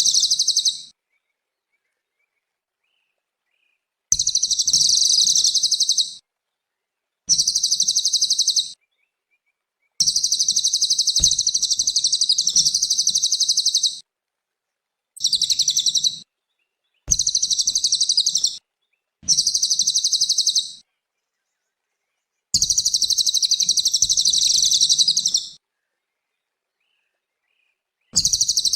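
Cililin songbird singing high-pitched, rapid chattering trills in bursts of one to four seconds, about nine in all, separated by short stretches of dead silence.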